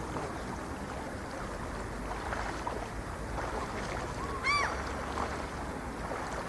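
Lake water lapping in a steady wash, with one short seagull call about four and a half seconds in.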